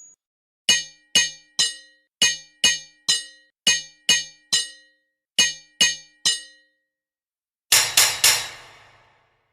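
Hammer striking metal on an anvil in quick groups of three ringing blows. Near the end comes a louder triple blow that rings on for about a second.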